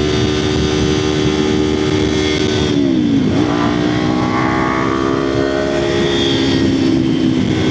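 Kawasaki Ninja 500 parallel-twin engine and exhaust while riding, with wind noise. The revs dip briefly about three seconds in, pick up again and hold steady, easing off slightly near the end.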